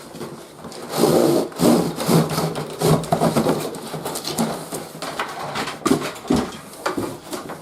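Cardboard and plastic toy packaging being handled and opened: irregular rustling, crinkling and knocks.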